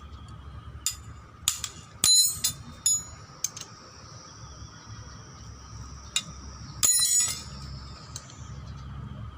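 Metal tools and brush cutter parts knocking and clinking during disassembly, a series of sharp clicks with two ringing metallic clinks, the loudest about two seconds in and about seven seconds in.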